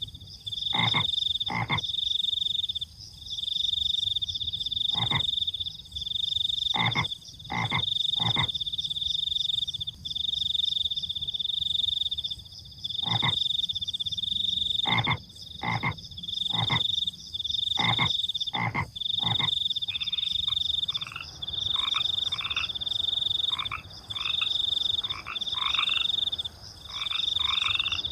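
Frogs croaking with crickets: a high shrill trill repeats in bursts of a second or two, crossed by short croaks at irregular intervals. The croaks come quicker and higher-pitched from about two-thirds of the way through.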